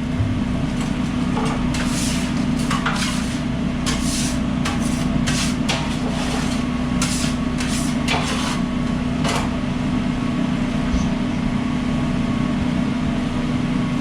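Food truck kitchen at work: a steady low machine drone, with quick irregular clatters and knocks of kitchen gear through the first nine seconds or so, then only the drone.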